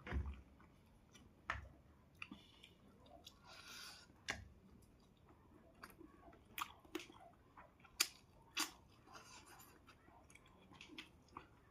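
A person chewing and biting food, with irregular sharp clicks and short soft mouth noises.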